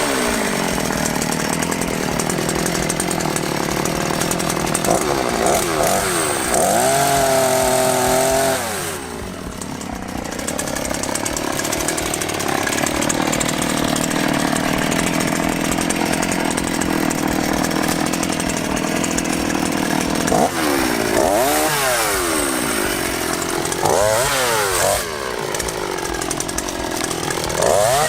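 Two-stroke chainsaw cutting apple-wood firewood. The engine revs up and down between cuts, holds high revs under load, and drops briefly about nine seconds in.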